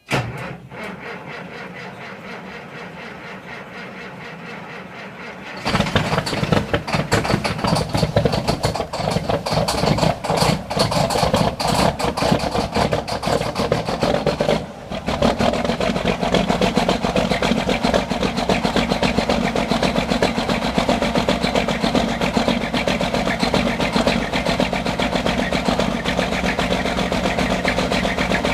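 Diesel engine of a 1995 Freightliner FLD semi truck cold-starting. The starter cranks for about five and a half seconds, then the engine catches and runs loud and rough, falters briefly about halfway, and settles into a steadier idle.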